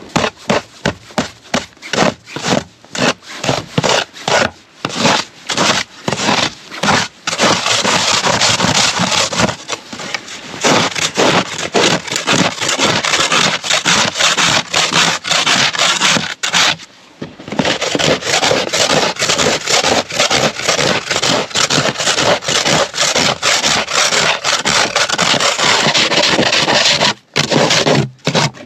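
Hand tool working wood in repeated rubbing strokes. The strokes are spaced at first, then come faster and almost run together, with a short break a little past the middle.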